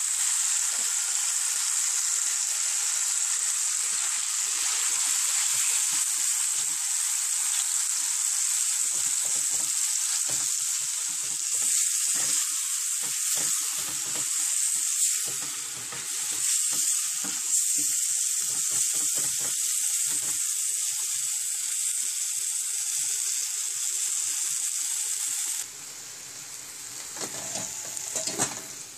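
Bite-size chicken pieces sizzling in hot oil in a sauté pan, a steady loud frying hiss, with a spatula scraping and stirring through them in short irregular strokes. Near the end the sizzle drops suddenly to a much fainter level.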